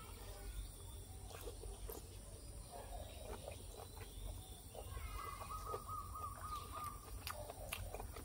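Faint chewing and eating sounds with scattered small clicks of utensils and mouth, and a bird calling in a rapid run of pulsed notes for about two seconds, a little past the middle.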